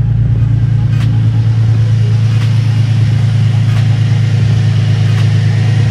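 Infiniti G35's 3.5-litre V6 idling steadily, a constant low hum, shortly after its first start with a new oil cooler fitted.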